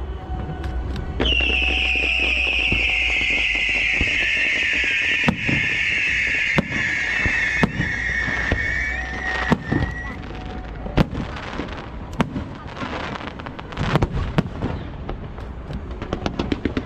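Aerial fireworks: a long whistle falls slowly in pitch for about nine seconds, while shells burst with sharp bangs every second or so. Near the end the bursts give way to dense crackling.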